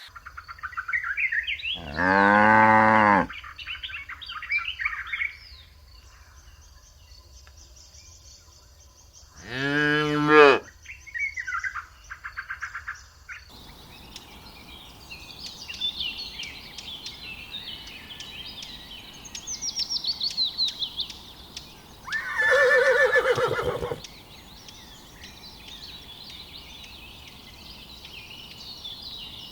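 A cow mooing twice, two long, low calls about eight seconds apart, with small birds chirping around them. Later, over steady birdsong, a single loud call of another animal is heard about two-thirds of the way through.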